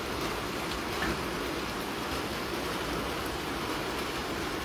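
Steady rain falling on rooftops and a wet street, an even hiss with no breaks.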